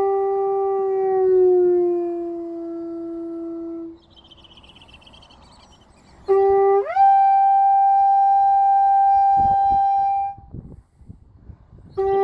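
Conch shell horn blown in long held notes. The first note sags lower in pitch and fades out about four seconds in. After a short pause a new blast starts low, jumps up to a higher note, and is held steadily for about three and a half seconds. Another blast begins just before the end.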